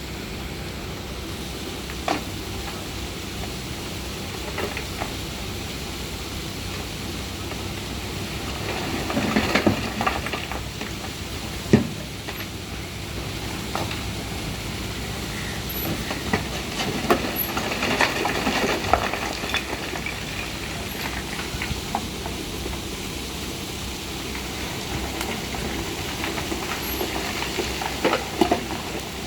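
Diesel engine of a backhoe loader running steadily, with rough scraping and rattling about nine seconds in and again around eighteen seconds, and a single sharp clunk near twelve seconds.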